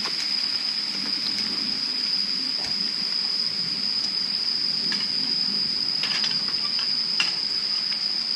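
A steady, unbroken high-pitched insect trill over an even hiss, with a few faint ticks scattered through it.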